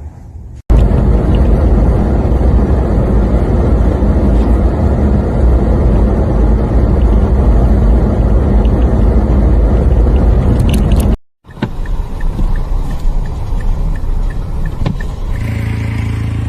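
Loud, steady rushing noise of a vehicle on the move, cut off abruptly about eleven seconds in, followed by a quieter vehicle sound with a low steady hum near the end.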